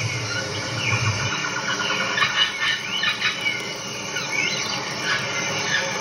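Birds chirping: many short, quick calls overlapping, over a steady hiss.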